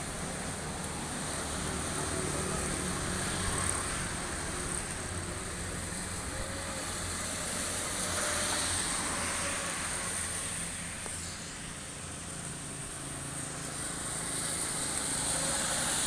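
Road traffic on a wet road in drizzle: a steady low engine hum with the noise of vehicles passing, swelling about halfway through and again near the end.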